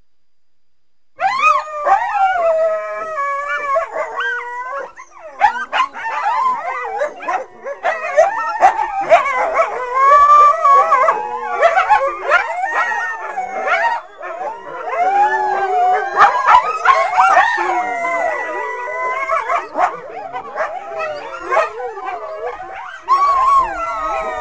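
A pack of coyotes howling and yipping together, many high wavering calls overlapping at once. The chorus starts suddenly about a second in.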